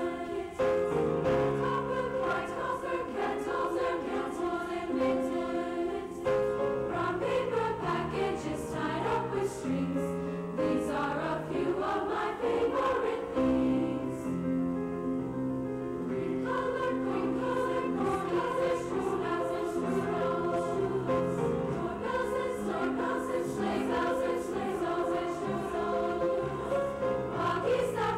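Junior high school choir singing a winter concert piece, several voice parts holding chords that change every second or so.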